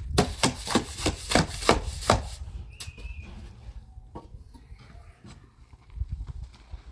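A quick series of about seven sharp knocks, roughly three a second, then a few scattered clicks.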